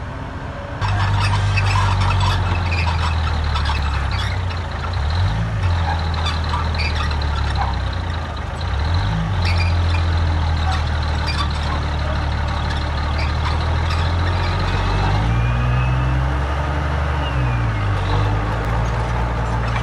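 Heavy diesel engine of earth-moving machinery running hard, its pitch dipping and recovering several times, with scattered metallic clanks and rattles. It gets abruptly louder about a second in.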